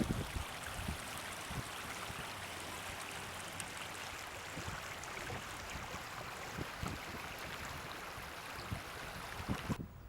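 Overflowing river floodwater flowing past in a steady rushing hiss, with a few faint low bumps of wind on the microphone; the rushing cuts off abruptly just before the end.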